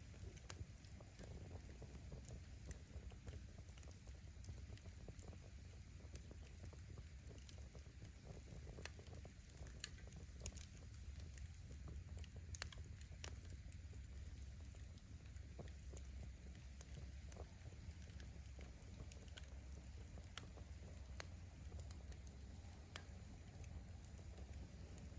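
Wood bonfire burning: firewood crackling with scattered sharp pops over a low steady rumble, one pop louder than the rest about twelve seconds in.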